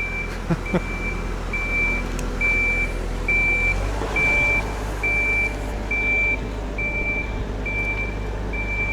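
Boatyard crane's diesel engine running with its motion warning beeper sounding a steady high beep about every 0.8 seconds; the engine's low hum grows louder about four seconds in, as the machine works harder.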